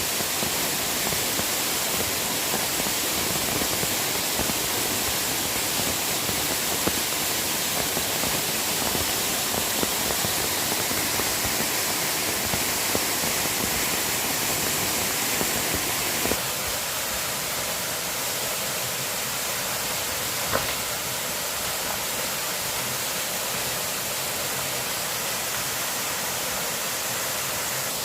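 Steady rushing noise of water, with a few faint knocks; the deeper part of the rush drops away suddenly about sixteen seconds in.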